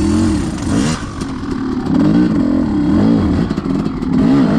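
Two-stroke dirt bike engine revving up and down in a series of short throttle blips, about four or five rises and falls, as the bike is ridden through technical terrain.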